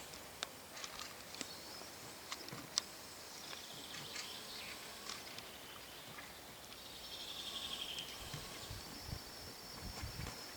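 Small birds chirping: scattered sharp chips and two short buzzy trills, with a thin steady high tone joining about seven seconds in.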